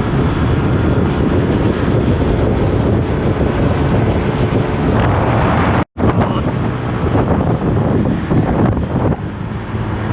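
Heavy wind rushing over the microphone on a moving motorbike, a steady loud rumble of noise. About six seconds in, the sound cuts out completely for an instant.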